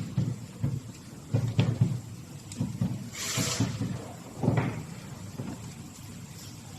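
Irregular clunks, knocks and a few sharp clicks of parts and tools being handled, with a short scraping hiss a little past three seconds in.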